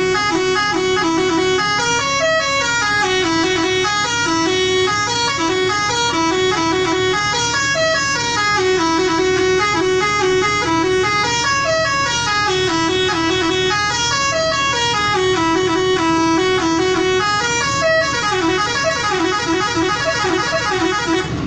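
Truck's musical horn playing a short stepped tune over and over, each phrase lasting about two and a half to three seconds, over the steady drone of the truck's engine.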